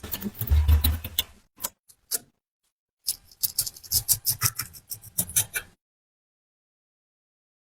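Light clicks and taps of pliers and other hand tools being handled, with a dull thump about half a second in. The clicks come in two runs of a few seconds each, cut off abruptly by dead silence.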